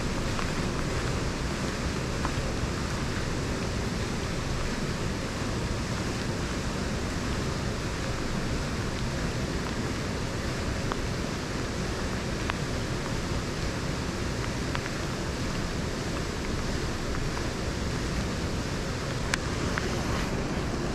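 Steady rushing noise of wind and rain, with a few faint ticks scattered through it.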